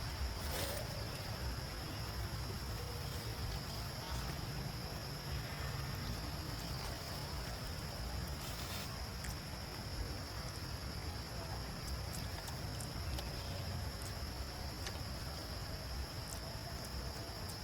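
Steady high-pitched drone of insects, crickets or cicadas, over a low outdoor rumble, with a few faint clicks.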